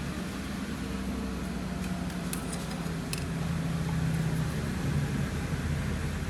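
Steady hum of workshop machinery running, with a held low tone that fades out about four and a half seconds in and a couple of faint ticks around two to three seconds in.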